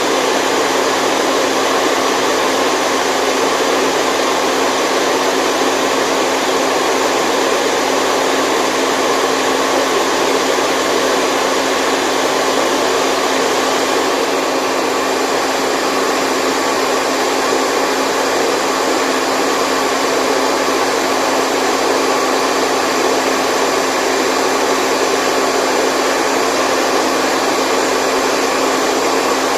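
Steady white noise for baby sleep: an even, unbroken rushing hiss with a faint steady hum running through it, like a running appliance. The upper part of the hiss shifts slightly about halfway through.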